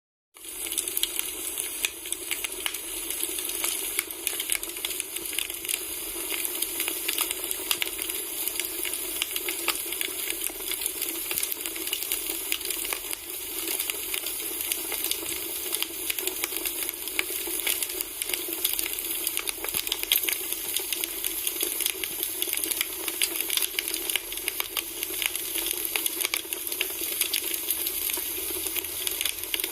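Wood fire burning: firewood crackling with dense, irregular pops and snaps over a steady hiss.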